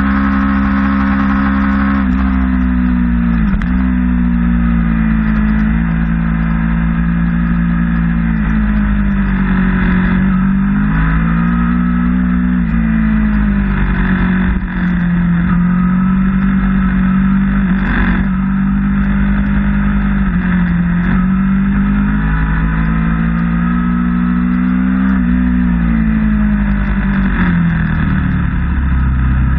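Sport motorcycle engine heard from on board at track speed, its note rising under throttle and dropping back several times through the corners, over a steady rush of wind.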